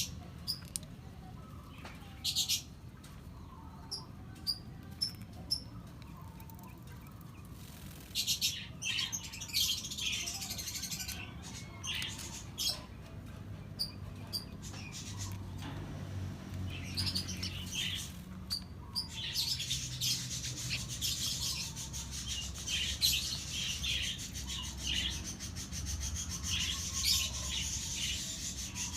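Lovebirds chirping in short high calls, sparse at first and much busier from about eight seconds in. In the second half a steady, scratchy high-pitched noise runs under the chirps.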